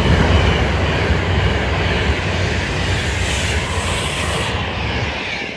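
A train passing close by at speed on the main line, a loud steady rumble and rush of wheel and air noise.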